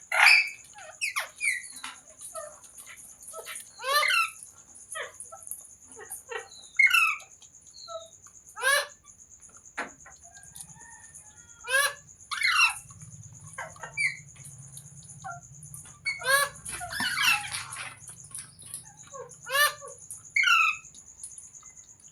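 Green parrot calling: loud, harsh squawks repeated every one to three seconds.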